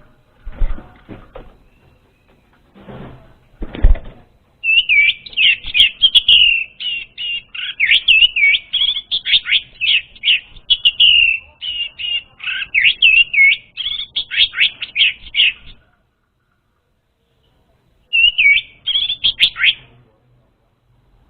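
Orange-headed thrush singing: a long run of rapid, varied whistled notes lasting about eleven seconds, then a short pause and a shorter second phrase. A few soft knocks come before the song starts.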